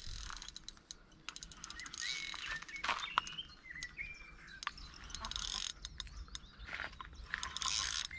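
Small birds chirping, with short high chirps and little pitch glides scattered through, over a low steady background hum and frequent faint clicks and ticks.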